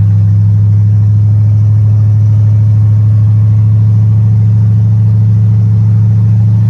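Ford 429 big-block V8 running loud and steady on open headers with no exhaust pipes fitted, while the car is driven along. The engine speed holds even, giving a constant low exhaust note.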